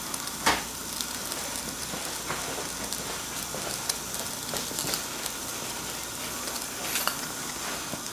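Steady sizzling hiss from a small live-steam engine's fired boiler as it builds steam, with a sharp tap about half a second in.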